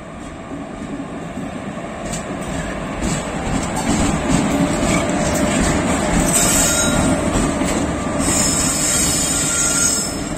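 WAP-4 electric locomotive departing and rolling past close by, hauling its passenger coaches. The rumble and wheel noise grow louder over the first few seconds, then stay loud as the locomotive and the first coach go by.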